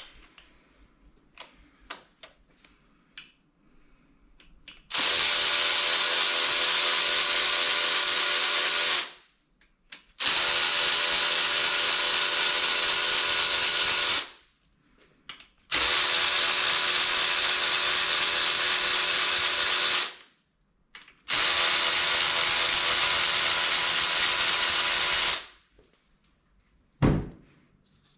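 A handheld power drill or driver motor run at a steady speed in four bursts of about four seconds each, with short pauses between. Small clicks and knocks of parts being handled come before them, and a single thump comes near the end.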